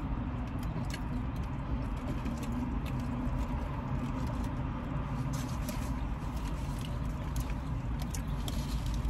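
Burrito-eating mouth sounds: chewing with scattered small wet clicks, and the crinkle of the paper wrapper being handled, over a steady low hum inside the car.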